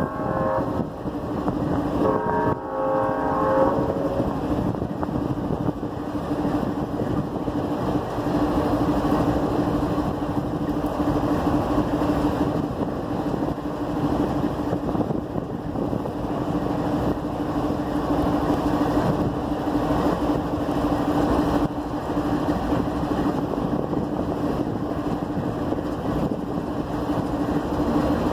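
Diesel locomotive engine running with a steady hum, and a train horn sounding briefly at the very start and again for about a second and a half, about two seconds in.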